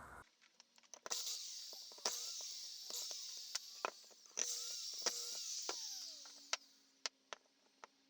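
A scattering of light, sharp clicks and taps over a faint high hiss that swells and fades several times, with a faint low steady hum starting near the end.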